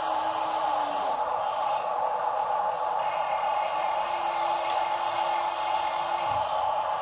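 Small electric motor and plastic gearbox of a toy RC dump truck running with a steady whine over a constant hiss. The motor tone sounds briefly at the start, stops, then comes back about four seconds in and stops again shortly before the end, sliding in pitch as it starts and stops.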